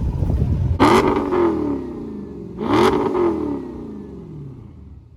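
Car engine with an aftermarket exhaust revved twice from idle, each blip rising sharply and dropping back to idle.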